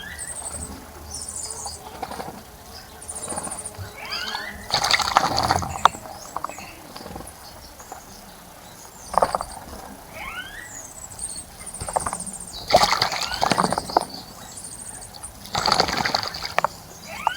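Birds bathing in a bird bath, splashing and fluttering in the water in several short bursts, while nearby birds give short rising chirps and brief high, buzzy trills.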